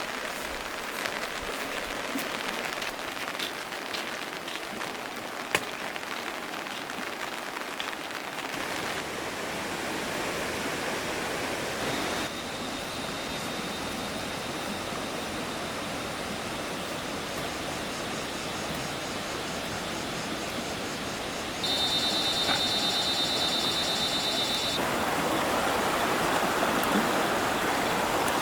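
Steady rushing water noise with scattered small clicks. A thin high steady tone joins about twelve seconds in and grows louder and pulsing for about three seconds past the twenty-second mark.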